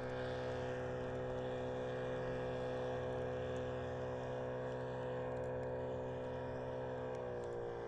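A motor's steady, even drone, its pitch dipping slightly near the end.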